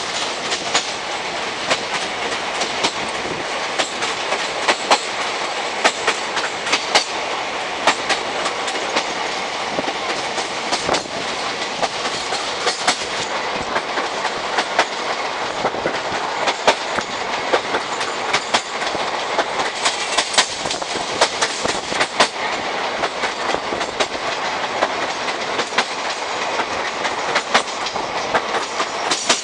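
Indian Railways express train running at speed, heard from the doorway of one of its coaches: a steady rushing of wheels and running gear, with irregular clickety-clack strikes of the wheels over rail joints.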